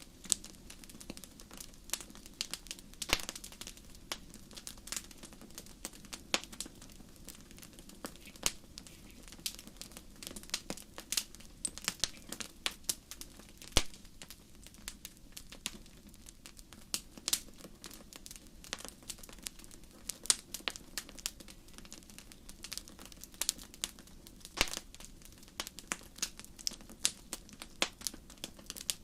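A fire crackling: irregular sharp pops and snaps, a few much louder than the rest, over a low steady background.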